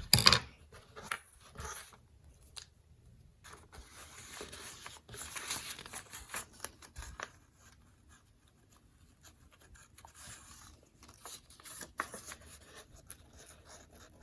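Handling noises of a paper origami model: a sharp knock at the start, then scattered faint rustles, clicks and scratches of paper being handled while a face is put on it.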